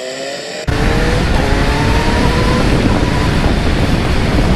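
Kawasaki Z900 inline-four motorcycle engine under way: a steady engine note, then under a second in it turns abruptly louder, its pitch rising slowly as the bike accelerates. A heavy rushing noise of wind and road lies underneath.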